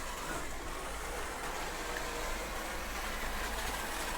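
Small electric remote-control cars driving, a steady whirring motor and tyre noise with no sharp knocks.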